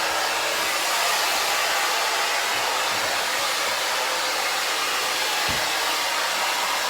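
Hair dryer blowing steadily, a constant rush of air, drying a freshly bathed dog's coat.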